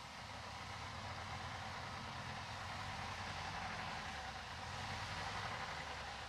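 Diesel engine of heavy earthmoving machinery running steadily under a broad hissing rush.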